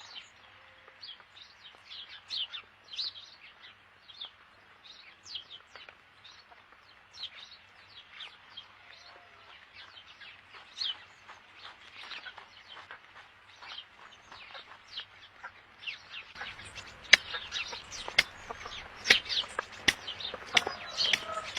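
Birds chirping: many short, high chirps. About sixteen seconds in the sound changes and grows louder, with sharp clicks among the chirps.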